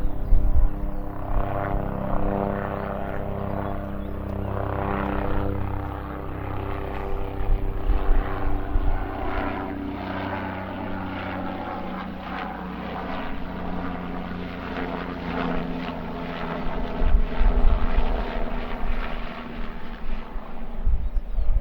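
Steady engine drone and road noise heard from inside a vehicle moving at road speed. The engine note shifts about halfway through, and low rumbling buffets come near the end.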